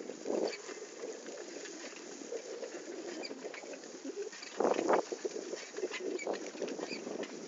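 Bicycle riding along a forest dirt track: steady tyre and rattle noise, with louder clattering jolts over bumps about half a second in and again near five seconds.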